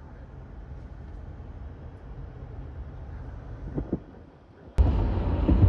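A steady low rumble, like vehicle noise; nearly five seconds in it cuts abruptly to a much louder rumble.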